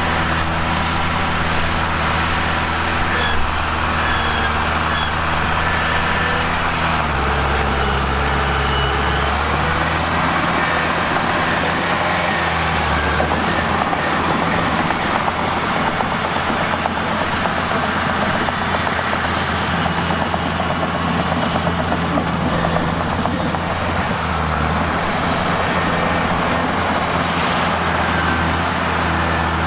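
Mitsubishi bulldozer's diesel engine running steadily under work, its note shifting a few times along the way.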